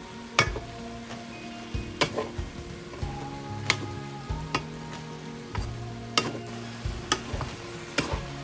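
Stir-fry of vegetables and chicken sausage sizzling in a pan while it is stirred, the cooking utensil knocking against the pan about once a second.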